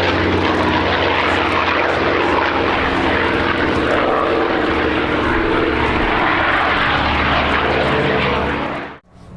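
Packard Merlin V-12 engines of P-51D Mustangs running loud and steady, a dense propeller-engine drone that cuts off suddenly near the end.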